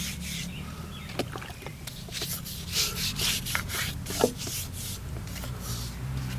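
Scrubbing strokes on a milling machine part being washed with dish soap: a run of short, even strokes at about three a second starting about two seconds in, with a couple of light knocks.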